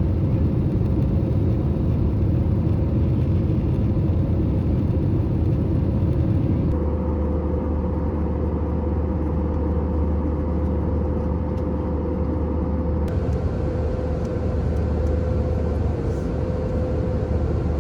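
Steady low rumble of a moving vehicle heard from inside, with a constant hum over it. The sound changes abruptly about seven seconds in and again about thirteen seconds in.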